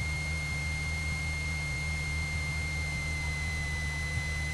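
Cessna 172's piston engine running steadily at low approach power, heard inside the cabin as an even drone, with a thin, steady high-pitched tone over it.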